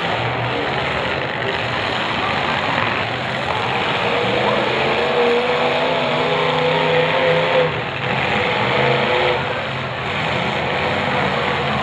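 Several demolition derby cars' engines running and revving hard while the cars push and ram against one another. One engine's rising, wavering rev stands out from about four to nine seconds in.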